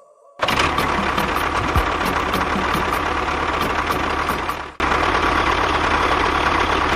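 A small motor running steadily with a steady hum. The sound breaks off for an instant about two-thirds of the way through and picks up again unchanged.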